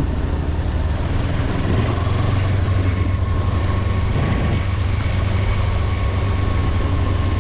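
Kawasaki Versys-X 300's parallel-twin engine running steadily on the move, a constant high whine over a heavy low rumble.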